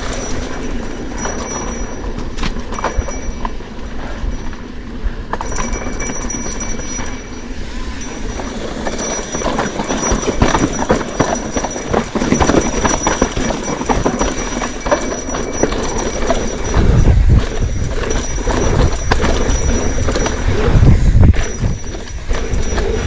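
Continuous rattling and clattering of a bike ridden over rough, bumpy ground, with wind buffeting the microphone in heavy gusts from about seventeen seconds in.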